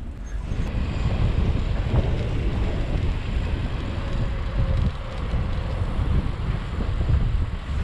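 Wind buffeting the microphone of a camera on a moving bicycle: a rough, gusting rumble that swells suddenly a moment in and stays loud.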